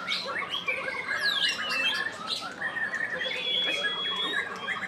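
White-rumped shama singing a fast, varied song of chirps, trills and whistles, with one long held whistle about three seconds in.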